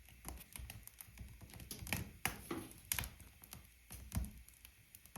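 Firewood crackling in a wood-burning stove: irregular sharp pops and snaps at uneven intervals.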